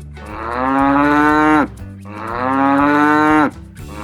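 Cow mooing: two long moos of about a second and a half each, each dropping in pitch as it ends, and a third moo starting near the end.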